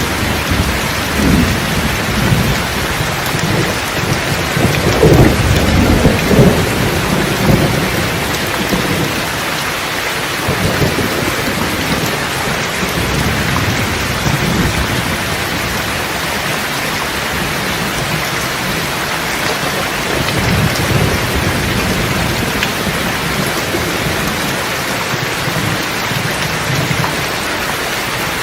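Steady heavy rain with thunder rumbling low underneath, loudest about five to seven seconds in, then fading to softer rolls later on.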